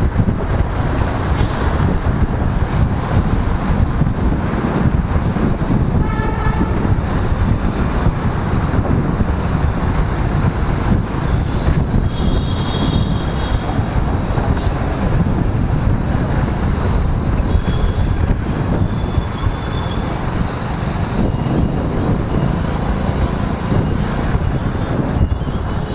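Motorcycle riding in city traffic: steady engine and wind rumble, with a vehicle horn about six seconds in and a few short high-pitched beeps or horns later on.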